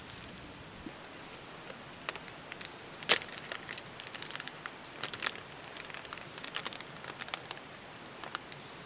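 Irregular sharp crackles and clicks, the loudest about three seconds in, over a steady faint hiss.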